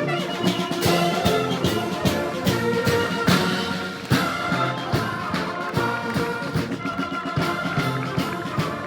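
Military band playing: brass in full chords over drum strikes.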